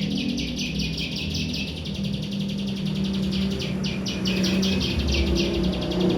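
A ciwah songbird singing a fast, continuous chattering series of short, high repeated notes, over a steady low hum.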